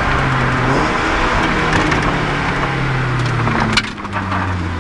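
A rally car's engine pulling hard, heard inside the cabin over steady road and tyre noise. Its pitch drops a little before the end as the revs fall, and sharp knocks and rattles come at the same moment and again at the very end.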